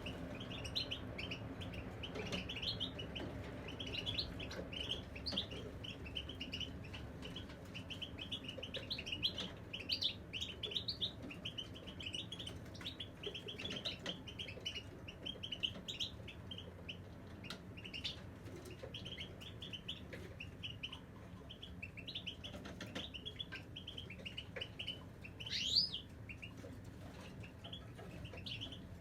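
Caged European goldfinch singing a continuous run of rapid, chattering twitters, with one louder rising note near the end.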